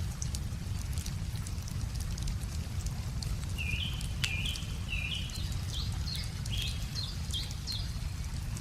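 Wood fire crackling with scattered sharp pops over a low steady rumble. From about three and a half seconds in, a songbird sings a run of short chirps that speed up and rise in pitch.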